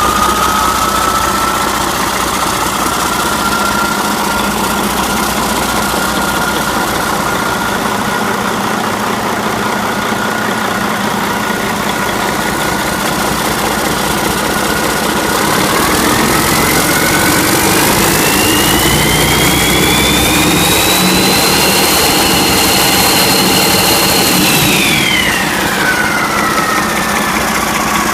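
Mercedes OM460 EGR inline-six diesel engine running just after start-up, idling at first. About halfway through it is revved up, with a whine climbing with the revs. The revs are held for a few seconds, then drop back to idle near the end.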